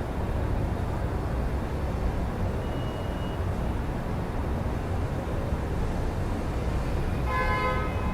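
City street traffic heard through an open window: a steady low rumble of passing vehicles. A short horn-like pitched tone sounds near the end.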